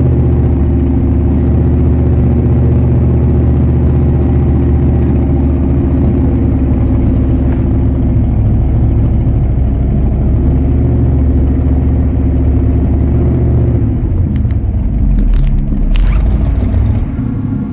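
A snow truck's engine running hard under load, its note held steady, then easing off about fourteen seconds in, with a few sharp knocks near the end.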